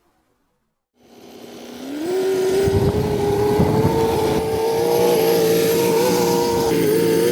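Miniature V8 model engine running: it cuts in about a second in, revs up quickly, then holds a high, steady speed.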